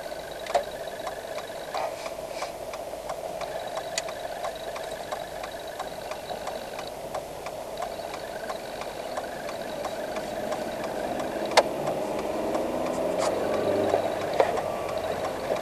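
Car engine heard from inside the cabin as the car pulls away from the kerb and gathers speed, the engine note rising and getting louder over the last few seconds, with scattered light clicks and rattles.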